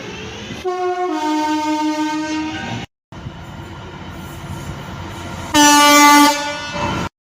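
Train horns: a two-tone horn sounds high then low for about two seconds, then after a sudden cut there is rail running noise and a second, louder horn blast near the end, which stops abruptly.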